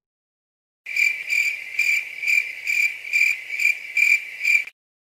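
Stock 'crickets' sound effect: a cricket chirping in an even, high-pitched pulse of about two and a half chirps a second, starting about a second in and stopping shortly before the end.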